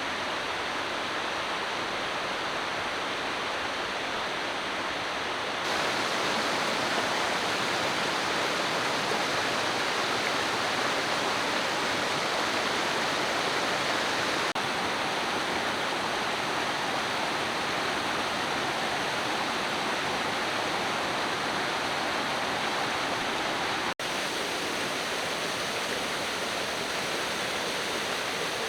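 Steady rush of fast-flowing mountain water, an even noise without pauses. It grows a little louder about six seconds in and breaks off for an instant near the end, as the shot changes.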